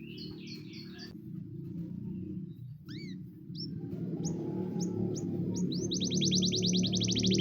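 Canary singing: scattered high, rising whistled notes and short calls, then near the end a rapid trill of rising notes about ten a second. Background music plays underneath and grows louder.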